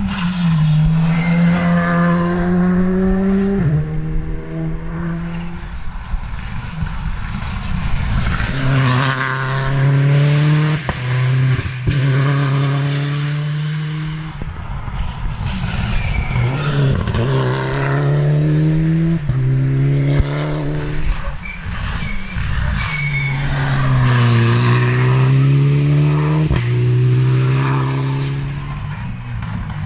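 Rally cars on a twisty stage, engines revving hard: the pitch drops through quick downshifts into each bend and climbs again through the gears as they accelerate away, several times over.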